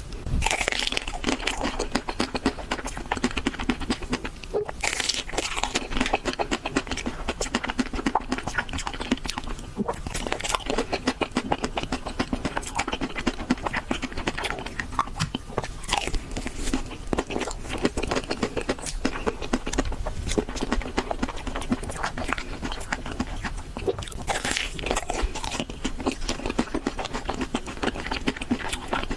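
Close-miked eating of homemade chocolate ice cream: quick, continuous biting and chewing with a crunchy crackle.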